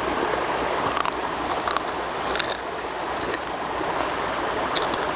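Steady rush of a flowing stream, with a handful of short, sharp clicks or cracks over it.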